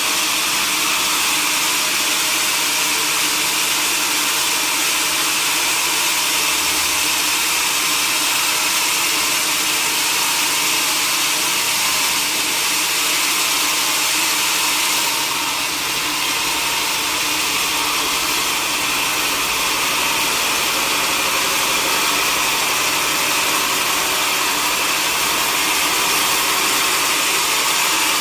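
Sawmill machinery running steadily, a dense hiss with a steady hum under it that dips slightly about halfway through.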